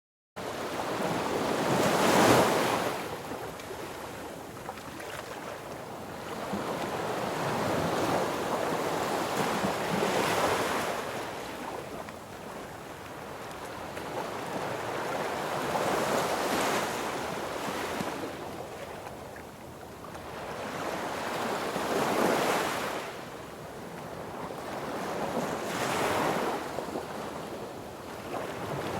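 Sea waves breaking and washing up on a beach. The sound starts abruptly just after the beginning, then swells and falls back every six to eight seconds, with the loudest crash about two seconds in.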